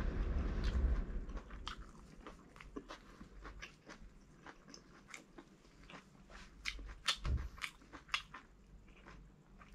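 Close-miked chewing and biting of air-fried barbecue duck, a run of sharp, irregular clicks and crunches from the mouth. A low rumble runs under the first second and stops.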